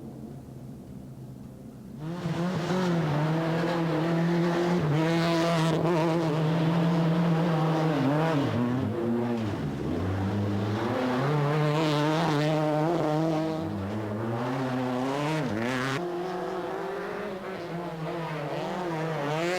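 Mk3 VW Golf GTI Group A rally car's engine being driven hard. After a quieter first two seconds it comes in loud, and its revs climb and drop again and again through gear changes and lifts.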